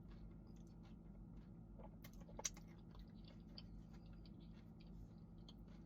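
Faint chewing of a sandwich close to the microphone, with small wet mouth clicks and one sharper click about two and a half seconds in, over a low steady hum.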